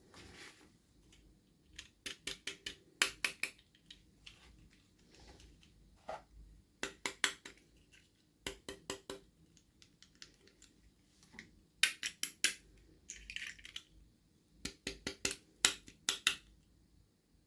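Short runs of quick, sharp clicks and taps, four to six at a time and repeated about eight times, from hands handling a plastic toy doll and its packaging.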